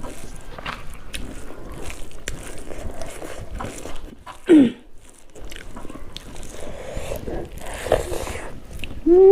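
Close-miked eating: chewing and biting with many small wet clicks and crunches. Two short pitched sounds from the eater's throat stand out, one sliding downward about four and a half seconds in and a louder one at the end.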